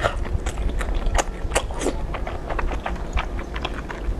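Close-up mouth sounds of slurping and chewing thick, chewy starch noodles in an oily chili sauce: wet, sticky smacks and clicks coming irregularly, several a second, with a longer slurp near the middle.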